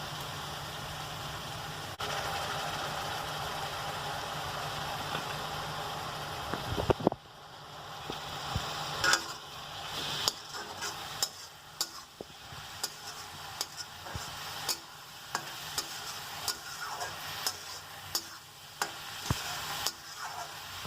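Food sizzling as it fries in a pan: a steady hiss for the first several seconds. About seven seconds in, the sizzle quietens and a cooking utensil clicks and scrapes against the pan many times as the food is stirred.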